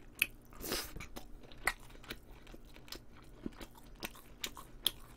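Close-miked chewing of braised short ribs, with scattered sharp mouth clicks and a short breathy rush a little under a second in.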